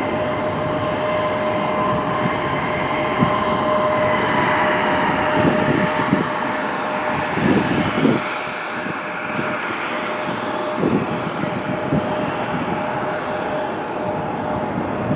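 Jet aircraft engines running: a continuous roar with a steady high whine held on a few fixed pitches, the upper ones sagging slightly partway through.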